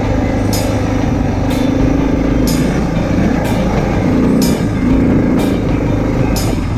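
Motorcycle engine running while riding, with road and wind noise and a short, high tick about once a second.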